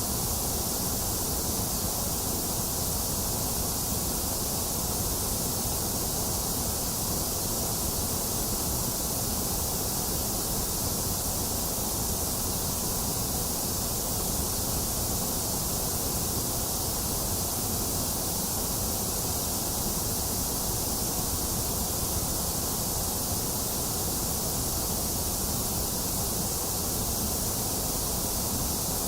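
Steady, unbroken mix of box fan noise and falling rain, with no thunder and no sudden sounds.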